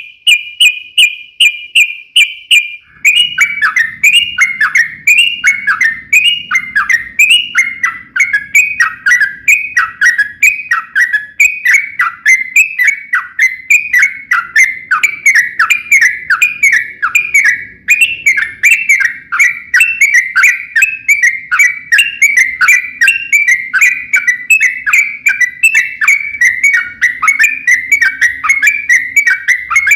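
Yellow-vented bulbul (trucukan) singing a long unbroken song, known as ropel panjang. It opens with a brief string of steady high notes, then runs into a fast chain of short falling whistled notes, repeated without pause.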